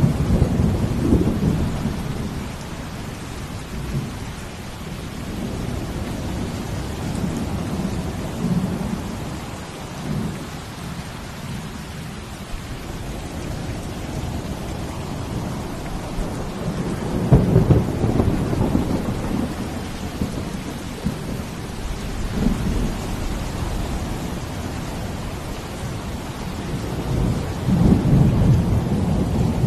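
Steady rain hissing, with deep low rumbling swells that rise and fade three times, near the start, past the middle and near the end.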